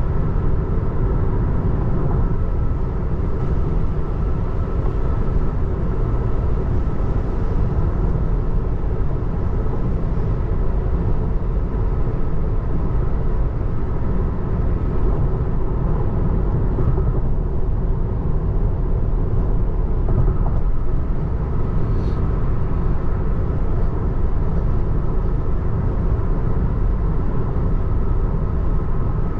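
Steady road and tyre rumble heard inside the cabin of a 2024 Tesla Model 3 at freeway speed, with no engine note since the car is electric.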